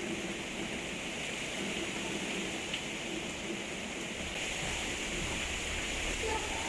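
Heavy, torrential rain falling steadily during a thunderstorm, a constant hiss, with a low rumble building about halfway through.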